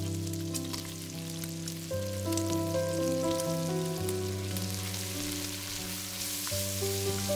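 Diced onions sizzling and crackling in hot bacon fat as they are tipped into the pot, the frying growing stronger near the end as they are spread and stirred. Soft background music with sustained notes plays underneath.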